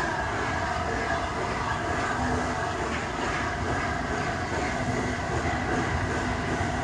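Steam-hauled train running slowly along the line towards the listener: the steady noise of the locomotive working and its wheels on the rails.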